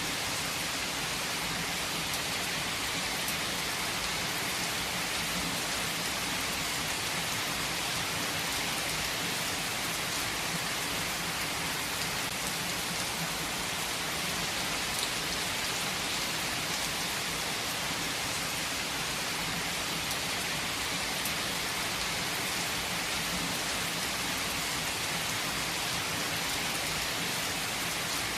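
Heavy rain falling steadily as an even hiss, with a few drops ticking now and then.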